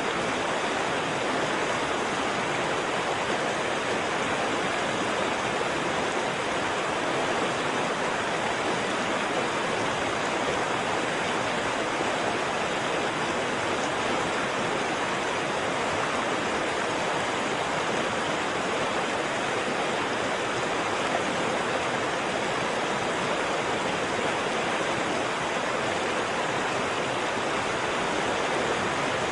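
Waterfall: water falling and rushing in a steady, even roar of white water that does not change.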